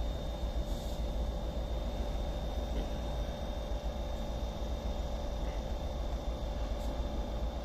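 Steady low rumble with a faint, even hum and a thin high whine: background noise of a railway station platform, with no distinct train passing.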